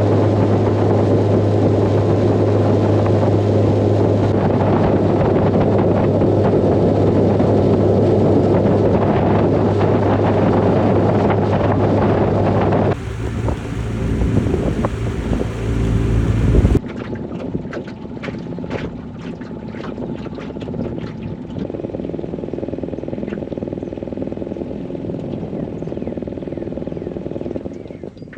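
Small boat outboard motor running steadily under way, with wind on the microphone. It cuts off suddenly about 13 seconds in to a windy rumble, then to quieter water with scattered light ticks.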